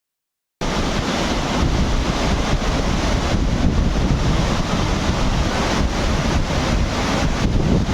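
Rushing river whitewater with wind buffeting the microphone, a steady loud noise heavy in the low end, starting about half a second in.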